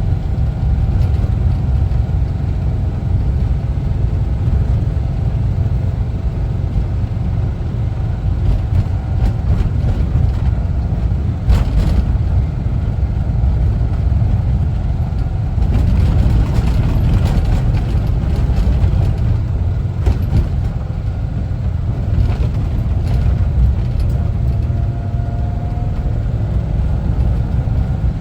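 The air-cooled flat-four Type 4 engine of a 1974 Volkswagen Westfalia camper van running while the van is driven, a steady low rumble, with a brief sharp knock about halfway through.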